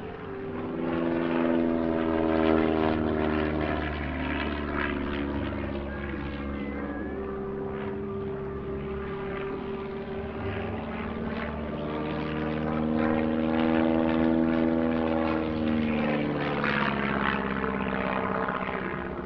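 Stampe SV.4 biplane's propeller engine flying an aerobatic solo display. Its pitch rises and falls as it manoeuvres, growing loud on two close passes, the first a couple of seconds in and the second about two-thirds of the way through.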